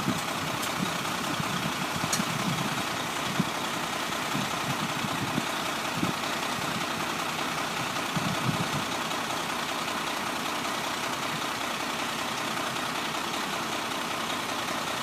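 Diesel truck engine idling steadily, with a few faint low knocks.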